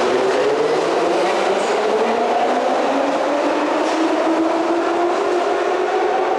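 Electric transit vehicle's traction motors whining as it pulls away, the whine rising steadily in pitch as it gathers speed, over running noise.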